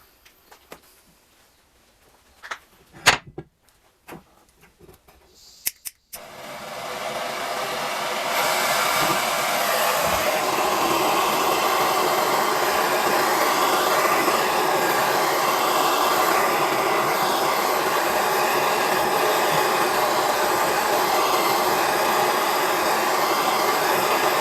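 A few sharp knocks, then about six seconds in a loud, steady blowing machine noise starts, builds up over a couple of seconds and holds evenly.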